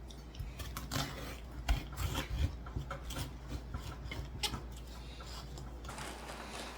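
Serrated bread knife sawing thin slices off a head of cabbage, irregular rasping strokes with small knocks, stopping about six seconds in.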